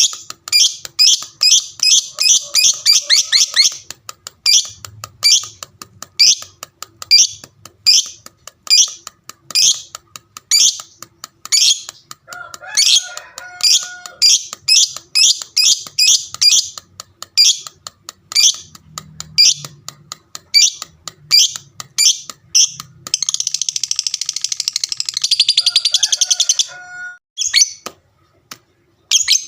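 Lovebird singing its long chattering song (ngekek): a quick string of sharp, high chirps, several a second. Late on they run together into a fast unbroken trill for a few seconds, then break off briefly near the end.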